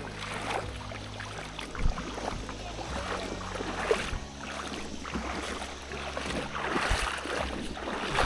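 River water running steadily, with a few short knocks about two and four seconds in.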